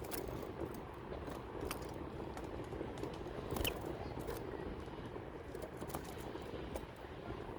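Scattered small sharp clicks and crunches over a steady low hum: a greenfinch cracking seeds with its beak.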